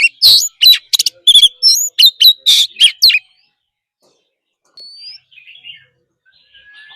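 Oriental magpie-robin singing a rapid run of loud, sharp whistled notes for about three seconds, then breaking off. A few faint whistles and soft chatter follow near the end.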